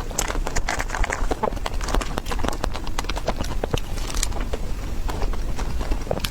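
Irregular clicking and tapping of kitchen utensils against cookware, several sharp knocks a second over a low steady rumble.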